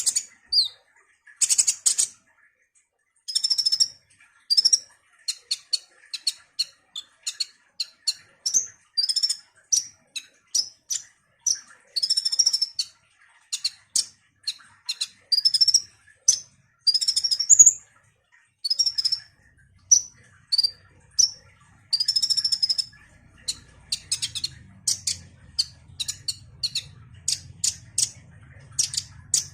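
Sunbird (kolibri) song: a fast, continuous run of short, high chirps and twittering notes with brief pauses. A faint low hum comes in during the last few seconds.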